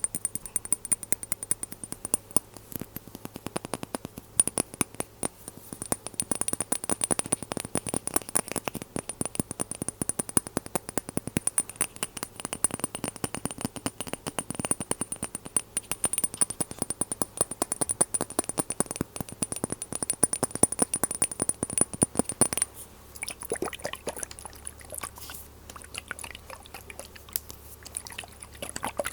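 Glass dropper bottles being handled: fast, dense clicks and taps of glass, over a steady faint high-pitched tone.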